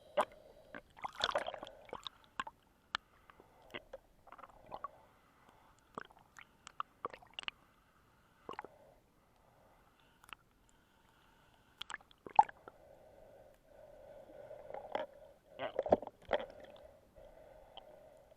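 Muffled underwater water sounds heard through a camera underwater, with scattered sharp clicks and knocks, the loudest about a second in, near the middle and near the end.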